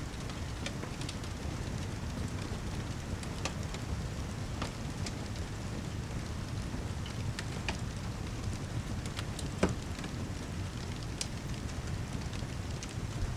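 Steady heavy rain with a crackling fire, sparse sharp pops and snaps from the burning wood over the even hiss, one louder pop about two-thirds of the way through.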